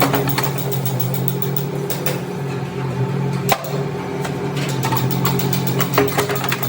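Workshop machine running with a steady hum, with a few sharp knocks, one about halfway through and another near the end.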